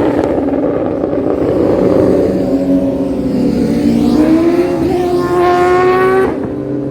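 Motorcycle engines revving loudly. One rises in pitch for about two seconds, then drops off abruptly near the end as the throttle shuts.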